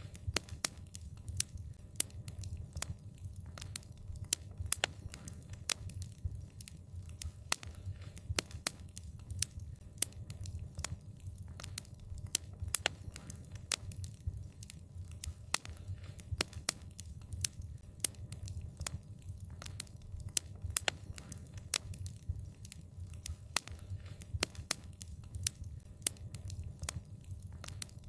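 Wood fire crackling, with irregular sharp pops and snaps, several a second, over a steady low rumble of the flames.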